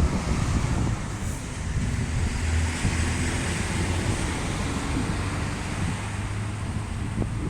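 A motor vehicle passing on the road, its tyre noise swelling and fading, with a steady low engine hum underneath and gusts of wind on the microphone.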